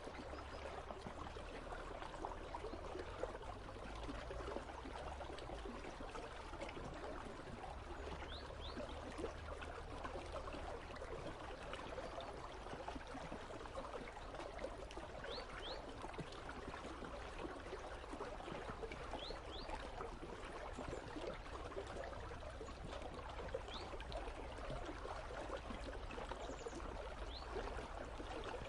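Partly frozen river flowing steadily, a continuous babbling trickle and gurgle of water.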